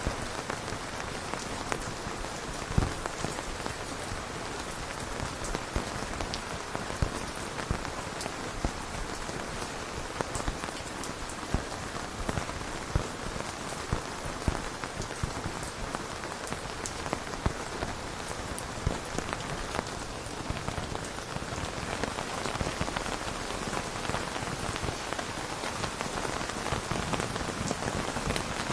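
Steady rain falling, a continuous hiss with many individual drops striking close by as sharp ticks.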